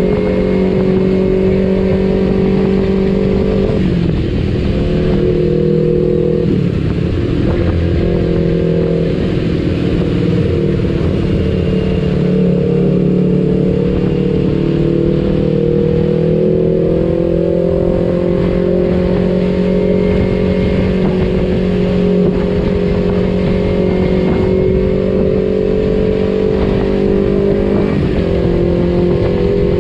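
Kawasaki Ninja 250 FI parallel-twin engine running through an R9 H2 aftermarket exhaust while riding, holding fairly steady revs. The revs drop briefly a few times, about four and seven seconds in and again near the end, as with gear changes or the throttle eased off.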